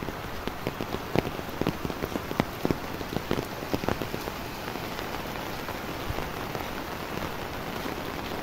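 Steady rain falling, with a scatter of sharp close taps from drops, thick in the first half and thinning out after about four and a half seconds.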